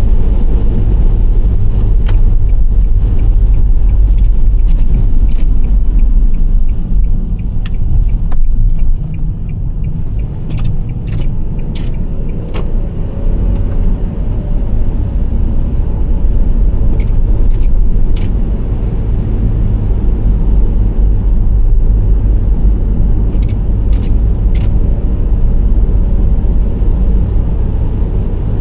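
Nissan Serena C25 minivan on the move: a steady low rumble of engine and tyres on the road, with a few light clicks now and then.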